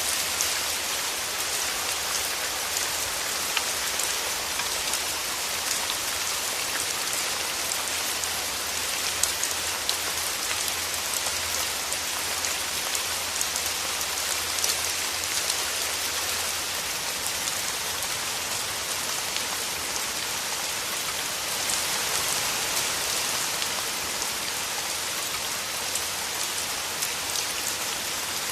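Steady rain falling through forest trees, a dense even hiss with many small drop ticks.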